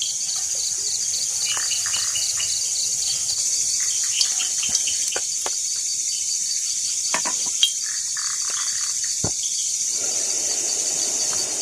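Crickets and other insects chirping in a steady dense chorus, with an even fast pulsing trill, and a few scattered sharp clicks.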